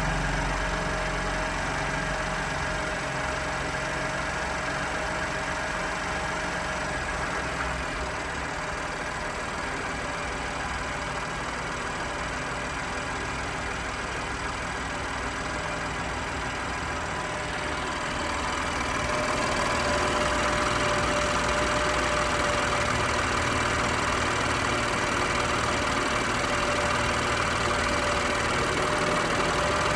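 BMW M2 Competition's twin-turbo 3.0-litre inline-six idling steadily after a cold start, getting louder about two-thirds of the way through.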